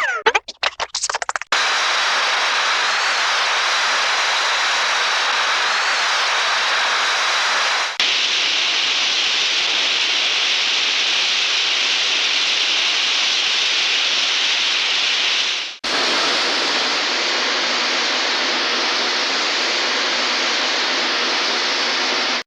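Hanna-Barbera cartoon sound effects played back to back. A quick run of clicks and a falling whistle at the start gives way to a steady, hissing, jet-like rushing noise, which cuts to a different rushing hiss about 8 s in and again about 16 s in.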